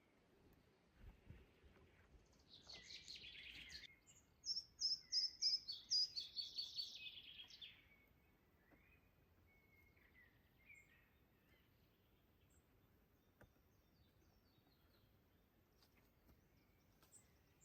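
A songbird singing: a short scratchy phrase, then a quick run of repeated high notes that step down in pitch, followed by a few faint chirps.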